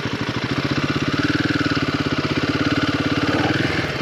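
Royal Enfield Himalayan 450's single-cylinder engine running at a steady, quick-pulsing idle. The revs rise slightly about a second in and drop back again near the end.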